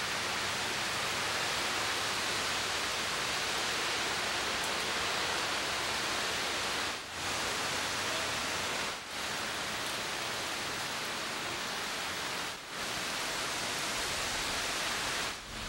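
Steady hiss of heavy hurricane rain, even and unbroken, dropping out briefly four times.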